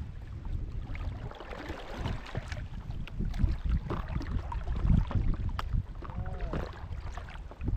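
Water splashing and lapping as a paddle board's paddle works the water, in irregular strokes. Wind rumbles on the microphone underneath.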